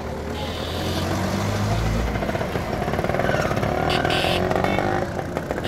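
Road traffic on a busy street, with a vehicle engine passing close. The engine gets louder about a second in, runs with a fast rattling note through the middle, and eases off near the end.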